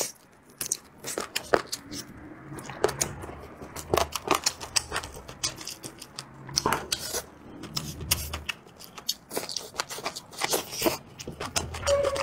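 Close-miked mouth sounds of a man chewing a mouthful of spicy chicken wing: a steady run of irregular wet clicks and smacks.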